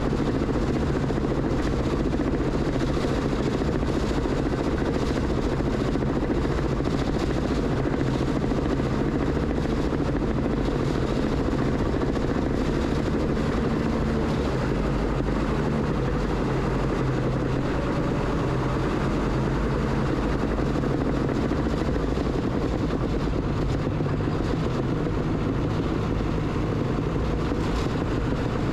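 Bulldozer's diesel engine running steadily at working speed while it cuts and pushes dirt, a constant low drone with no breaks.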